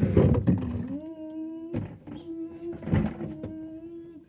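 A person humming one steady note that rises a little at the start, then holds level and breaks off briefly a couple of times. A few light knocks come in the first second and again between the hums.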